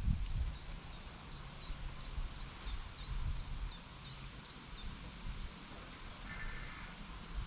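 A songbird repeating a short, high, falling note about three times a second, a dozen or so notes, stopping about five seconds in, over a low outdoor rumble.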